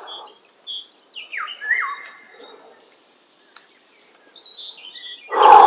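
Small birds singing: many short, high chirps and quick sliding notes. About five seconds in, a much louder short sound cuts in, the loudest thing here.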